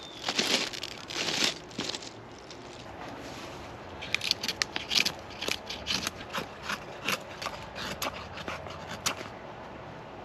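Rustling and crinkling as items in an abandoned suitcase are handled, loudest in the first two seconds. Later comes a run of short, crisp crunches, about two a second.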